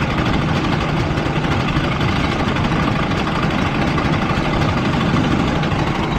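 Go-kart engine running steadily, heard close up from an action camera on the kart or driver, with a dense rush of low noise under it.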